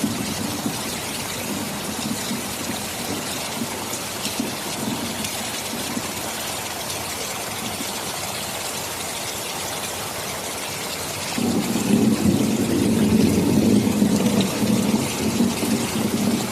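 Steady rain with thunder: a low rumble fades early on, then a louder roll of thunder comes in about eleven seconds in and lasts several seconds before easing.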